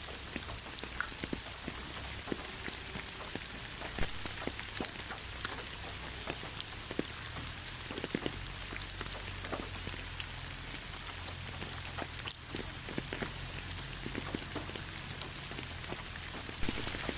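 Steady rain falling on a surface, with irregular drips and drop ticks over a constant hiss and a few louder individual drops.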